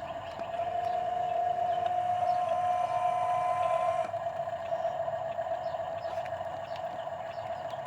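Heavy diesel machinery running, with a steady high whine that swells for a few seconds about a second in and then eases back.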